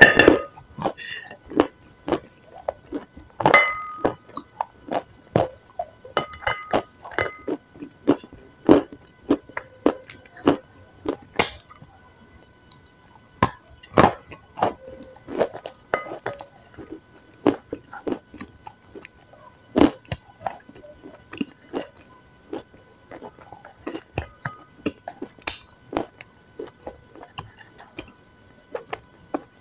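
Close-miked eating sounds: chewing and sticky, wet mouth noises, a steady run of irregular smacks and clicks as soft food coated in a thick dark paste is bitten and eaten.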